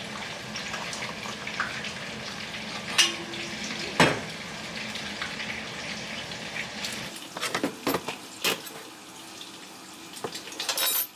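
Hot water being poured steadily into a cup to make coffee, with two sharp knocks about three and four seconds in. The pouring stops about seven seconds in, followed by several light knocks and clinks.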